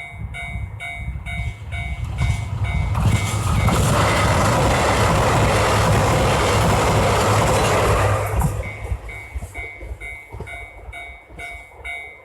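Japanese level-crossing warning bell ringing about twice a second as a JR Hokkaido KiHa 261 series diesel limited express passes over the crossing. The train's loud rumble and rush drown the bell for about five seconds midway, and the bell carries on ringing once it has gone by.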